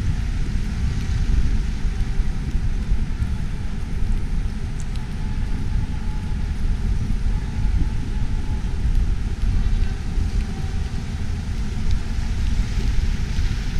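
Wind buffeting the microphone in a snowstorm: a continuous, gusty low rumble with no distinct events.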